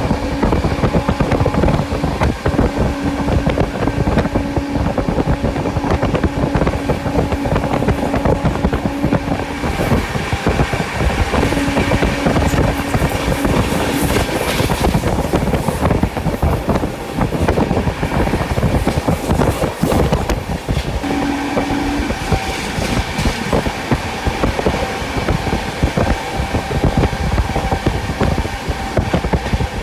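Express passenger train running at speed: steady rumble of wheels on the track with rapid, irregular clatter over rail joints and wind noise, and a faint steady tone that comes and goes.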